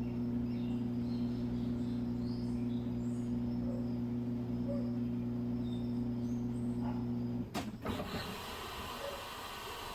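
Midea Wave-Agitator top-load washing machine humming steadily with an electric motor or pump, which cuts off with a click about three-quarters of the way through; an even hiss of water follows, typical of the machine moving on to the next stage of its cycle.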